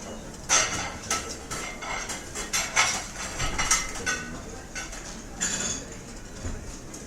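Restaurant dishes and cutlery clinking and clattering in quick, irregular strikes, busiest over the first five seconds or so and thinning out near the end, over a steady background hum of the room.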